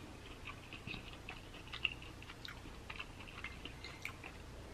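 Quiet chewing with the mouth closed during a seafood meal: faint, irregular small wet clicks and smacks.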